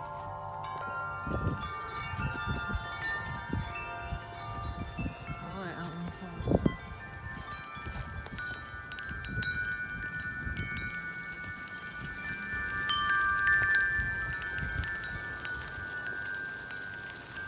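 Wind chimes ringing in gusty wind, many metal tones overlapping and swelling louder with the gusts, loudest a little past the middle. Wind rumbles on the microphone underneath, with one sharp buffet about six and a half seconds in.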